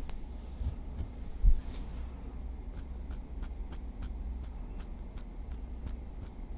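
Light tapping with a small wooden stick: a few scattered taps and a low thump about a second and a half in, then a steady run of about three light taps a second from about three seconds in.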